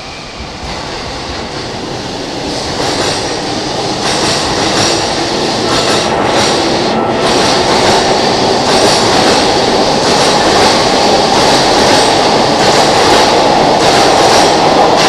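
JR Keihin-Tohoku Line E233 series electric train pulling out and running past close by, growing steadily louder as it gathers speed, its wheels clacking over rail joints.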